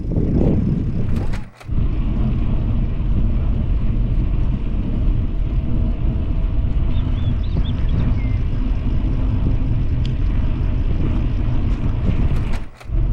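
Steady rumble of wind buffeting and road noise on a moving rider's camera, loud throughout, with two brief drops in level, about a second and a half in and again near the end.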